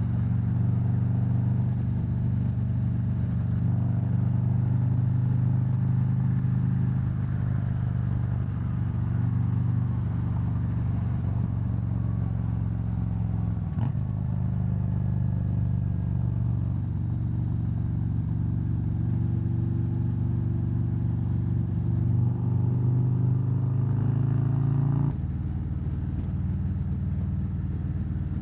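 Harley-Davidson Road Glide's V-twin engine running steadily at cruising speed. There is a single short knock about halfway through, and near the end the engine note drops abruptly.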